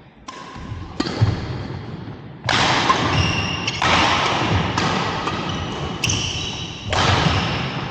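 Badminton play in a reverberant sports hall: sharp racket hits and footfalls on the court, each ringing on in the hall, with a few short high shoe squeaks.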